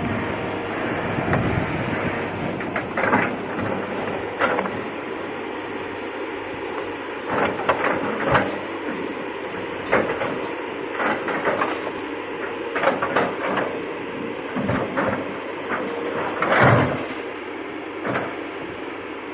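Hydraulic excavator running steadily while clearing land, with scattered sharp cracks and knocks from the work, the loudest a little before the end.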